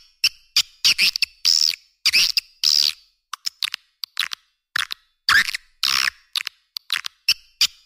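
Swiftlet calling sound, the lure call played in swiftlet houses: a fast run of short, high chirping twitters, several a second, with a brief pause about three seconds in.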